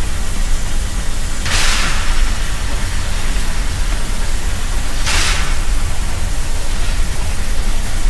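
Steam train running: a steady rumble and noise, with a short rush of hiss about every three and a half seconds.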